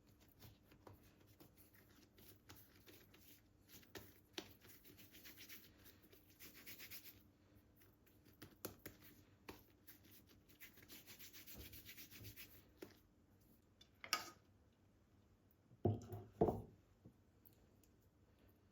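Faint rubbing strokes in two stretches, with scattered light taps and two louder knocks near the end.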